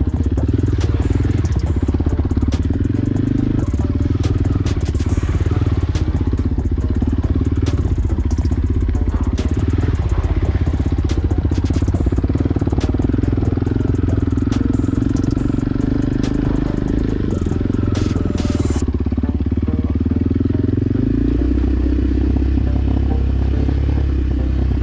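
Motorcycle engine running steadily while riding, with crackling and clatter over it until about three quarters of the way through, when the crackling stops.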